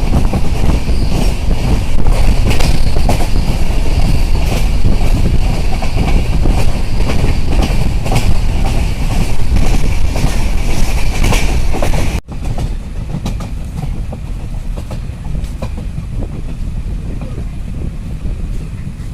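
Train running along the track, a loud rumble with wheels clattering over the rail joints. About twelve seconds in the sound cuts off abruptly and gives way to a quieter, steadier rumble.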